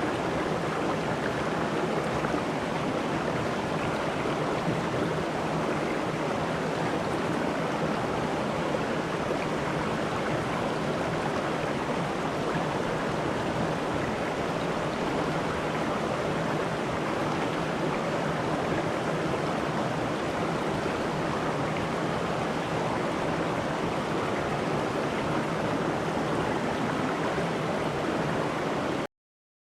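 River water flowing: a steady, even rush of moving water that cuts off suddenly near the end.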